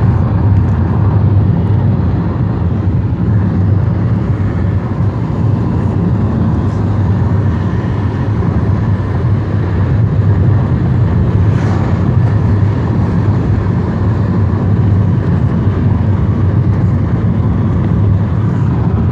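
Steady engine and road rumble heard from inside a moving vehicle, with a low drone and even road noise.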